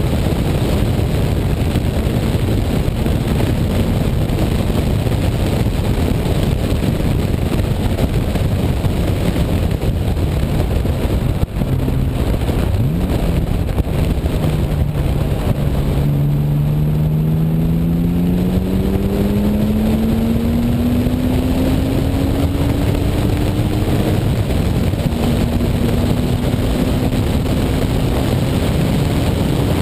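Heavy wind rush on the outside-mounted camera, with the BMW E36 M3's straight-six engine under it as the car laps the track. Past the middle the engine note climbs steadily for about ten seconds under acceleration, then breaks off at an upshift and starts climbing again near the end.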